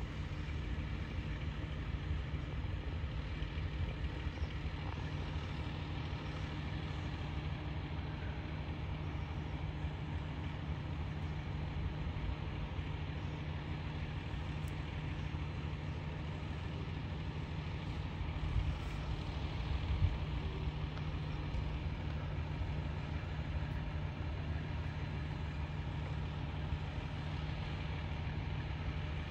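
Large truck engine running steadily with a low, even rumble, with a brief slight surge about two-thirds of the way through.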